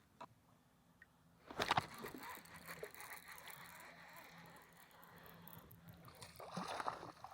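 Water sloshing and splashing around a fishing kayak, with one sharp splash or knock about a second and a half in.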